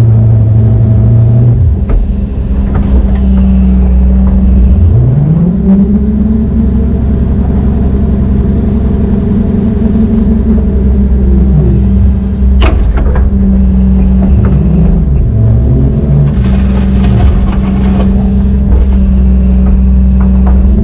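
Heavy diesel machinery engine running under load, its pitch rising about five seconds in and falling back around eleven seconds, with a sharp knock about thirteen seconds in.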